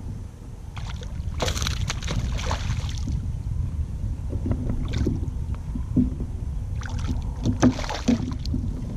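Kayak on the water with two bursts of splashing, about a second and a half each, a few seconds apart, and a few dull knocks near the end, over a steady low rumble of wind on the microphone.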